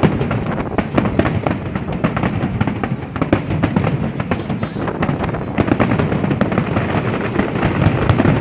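Fireworks display: a dense, continuous barrage of sharp bangs and crackles, many shells bursting in quick succession.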